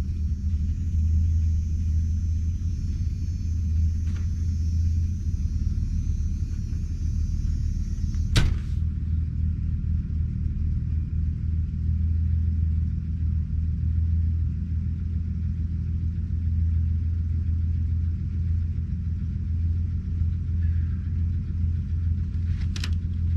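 Ford Ranger pickup engine idling steadily with a low rumble, its exhaust still plugged. A sharp click about eight seconds in and another near the end.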